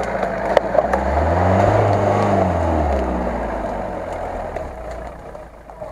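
Off-road 4x4 engine revving hard as the vehicle pushes through mud and water, rising in pitch about a second in, then easing off and fading as it moves away. A couple of sharp cracks sound about half a second in.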